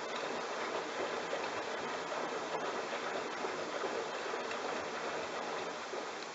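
Bosch washing machine washing a load of towels: water and wet towels sloshing in the turning drum, a steady swishing that eases slightly near the end.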